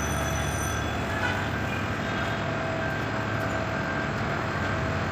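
Bangladesh Railway passenger train moving along the track: a steady rumble with a faint steady whine.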